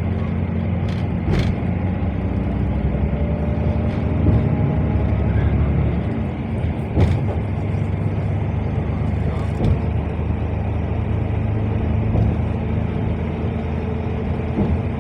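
Strong wind buffeting the microphone: a steady low rumble, with a sharp click about seven seconds in.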